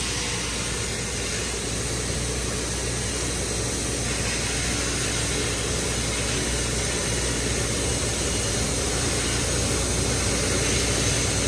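An engine running steadily, a low hum under a constant even hiss.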